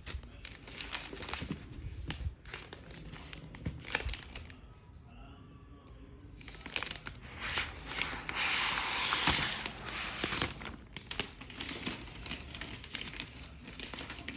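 Packaging around a laptop being handled and unwrapped: crinkling and rustling with many small crackles, and a longer tearing rip about eight seconds in.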